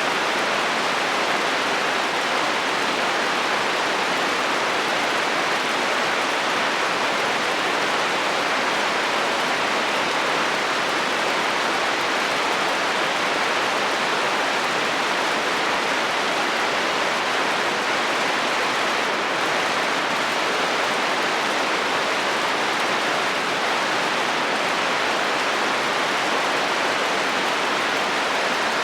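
Steady heavy rain on a metal roof: an even, unbroken hiss with no thunder.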